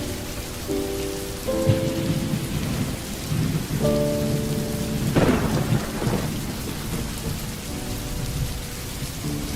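Steady heavy rain with thunder rumbling low through the middle, building to a louder crack about five seconds in.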